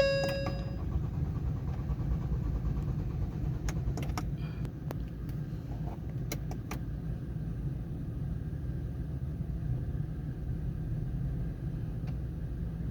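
Ford Ranger 2.0 diesel engine being cranked over by its starter in a long steady rumble without catching: a no-start that a scanner ties to camshaft position sensor circuit fault codes (P0343). A short dashboard chime sounds right at the start.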